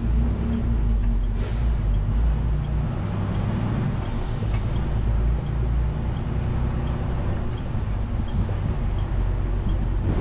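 Detroit DD15 diesel engine of a 2021 Western Star 4900 semi truck running under way, heard from the cab, with a steady low drone that shifts in pitch in the first few seconds. A brief hiss comes about a second and a half in, and a faint tick repeats about twice a second throughout.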